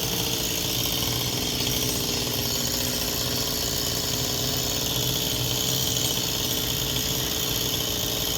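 Chainsaw engine running steadily at an even pitch, without marked revving.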